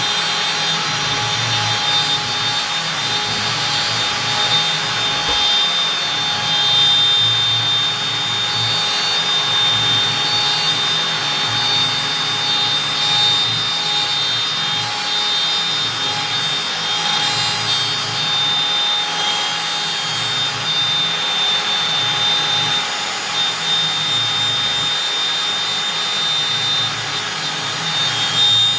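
Stepcraft M1000 CNC router's spindle running at high speed while a 4 mm up-down compression bit mills through beech. A steady high whine with cutting noise.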